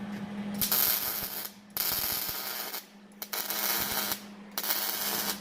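Welder crackling in four bursts of about a second each, with short pauses between: a leaking joint in the car's straight-pipe exhaust being welded up. A steady low hum runs underneath.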